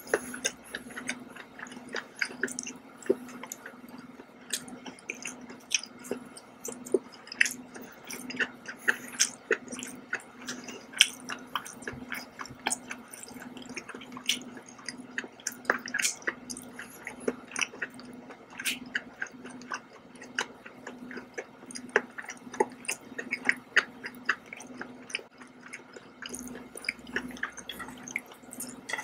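A person chewing scallops in oyster sauce: many short, irregular mouth clicks and smacks in a continuous run, over a steady low hum.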